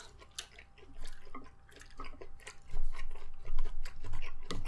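Close-miked chewing and mouth noises of someone eating: irregular wet clicks and smacks, growing louder a little more than halfway through.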